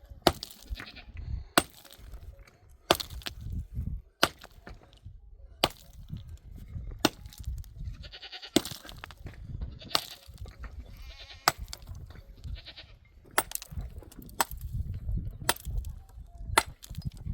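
Sheep and goats bleating, with sharp chopping strikes at a steady pace, about one every second and a half.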